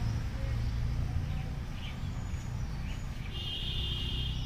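Outdoor ambience with a steady low rumble, a few short high chirps, and about a second of a high, even bird call near the end.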